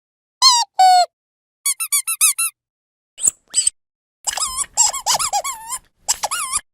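Rubber squeaky dog toy squeezed over and over, each squeak bending up and down in pitch. First come two squeaks and a quick run of short squeaks, then two brief ones, and in the second half the toy is squeezed fast in two dense flurries.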